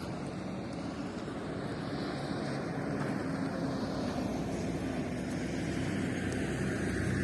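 A steady low mechanical drone with a rushing noise over it, growing slightly louder.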